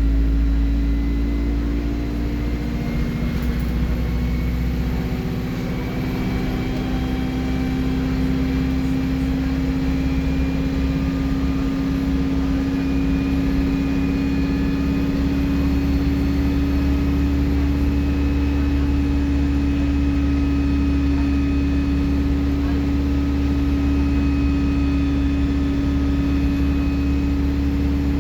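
Alexander Dennis Enviro 200 bus running steadily under way: a deep engine drone with a steady hum, overlaid by a thin, high turbocharger whistle that wavers slightly in pitch.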